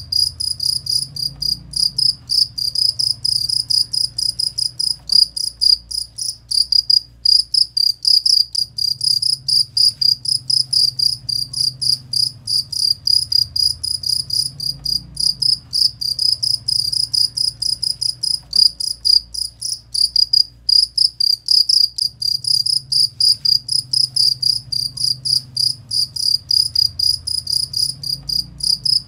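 Cricket (jangkrik) chirping in rapid, even pulses at one high pitch, on and on without a break, over a faint low hum.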